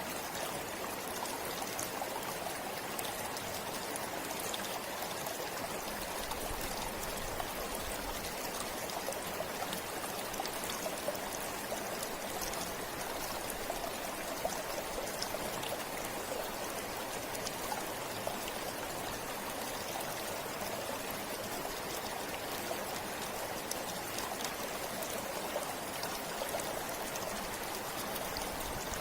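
A forest river flowing steadily: a continuous, even rush of running water with small splashes scattered through it.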